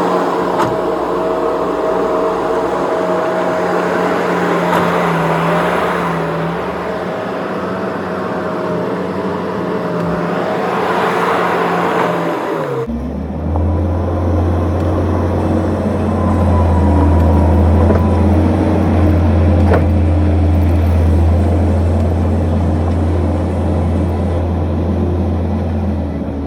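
Skid steer engine running steadily under work, then about halfway through the sound shifts suddenly to a deeper, steady drone.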